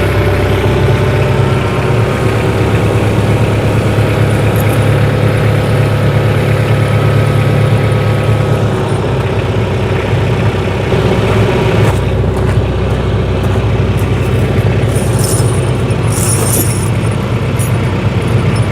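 Tractor engine running steadily as the tractor creeps forward to pull a snow chain over the tyre, with a short metallic jingle of chain links a few seconds before the end.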